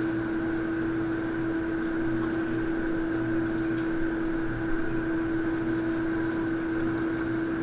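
A steady mechanical hum with one constant low tone, a fainter higher tone above it and a faint even pulsing underneath.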